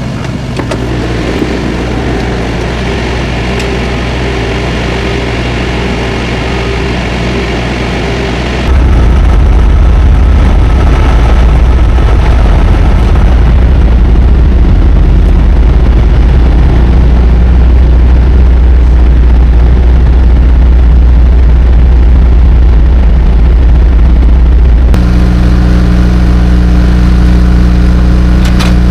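Semi truck's diesel engine idling steadily. It gets suddenly louder about nine seconds in, and its low hum changes pitch pattern near the end.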